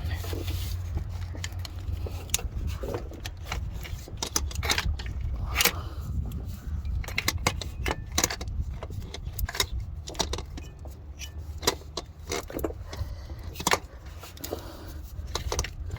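Scattered metallic clinks and taps of hand tools on bolts and brackets during removal of a car's starter motor, over a steady low rumble.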